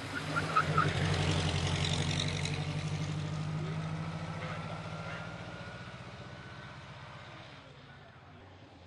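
Classic car engine running, loudest about a second in and then fading away steadily over the following seconds.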